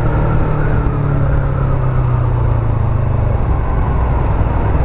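Yamaha MT-03's 321 cc parallel-twin engine running steadily while riding, with a constant low rumble of wind and road noise; the engine note drops away about three and a half seconds in.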